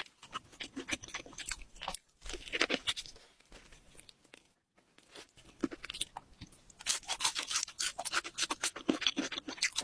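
Crunchy food being chewed close to the microphone: rapid crisp crunches, a quieter pause about halfway through, then heavy crunching again.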